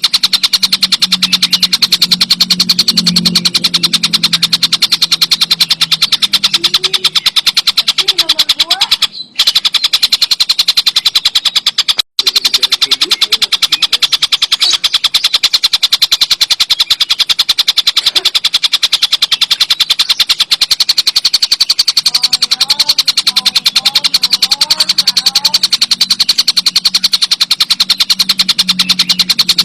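Tengkek buto bird calling in a very fast, continuous rattling trill, high-pitched and unbroken except for two short gaps about nine and twelve seconds in.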